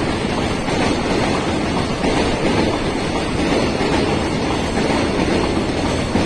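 Freight train running past at close range: a steady loud rumble of wheels on the rails.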